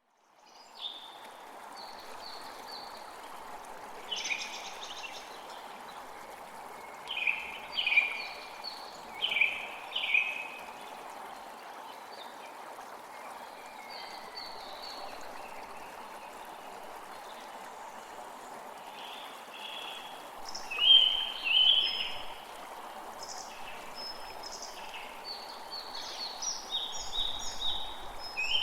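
Forest creek water flowing steadily, fading in at the start, with songbirds calling over it in short repeated phrases; the bird calls are loudest about eight to ten seconds in and again about twenty-one seconds in.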